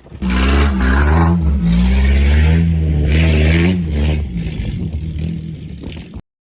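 Truck engine revving hard while its big tyres spin in the dirt, with rushes of noise from the wheelspin. It eases off after about four seconds and then cuts off suddenly.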